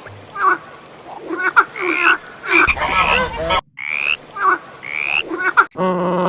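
An animal calling over and over: a string of short calls, several with a quick upward-sliding note. The calls break off abruptly twice.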